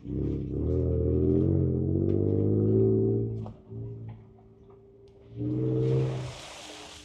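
Ford Ranger Raptor's twin-turbo V6 heard from inside the cab, revs rising under throttle for about three and a half seconds, dropping back to a steady lower drone, then a shorter rise near the end with a hiss over it.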